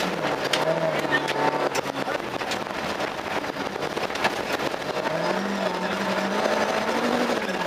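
Volvo 240 rally car's engine heard from inside the cabin, driven hard on a gravel road. Its note drops at the start, runs lower for a few seconds, then climbs again about five seconds in. Sharp clicks and knocks come through in the first couple of seconds.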